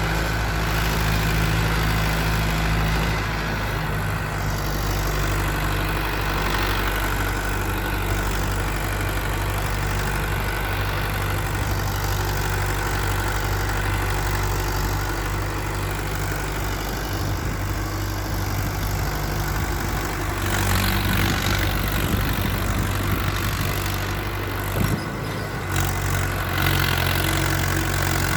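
Mahindra Arjun 555 DI tractor's diesel engine running, its note shifting in speed several times. A rougher, louder stretch comes about two-thirds of the way through, with a brief drop near the end.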